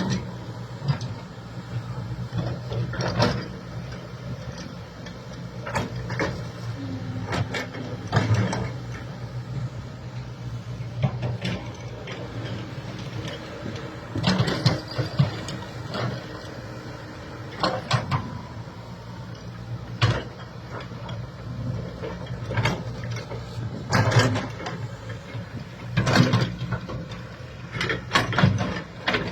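Backhoe engine running steadily, with repeated sharp clanks and knocks at irregular intervals, a dozen or so over the span.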